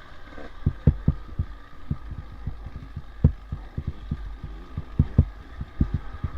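Irregular dull low thumps, sometimes several in a second, over a faint steady hum.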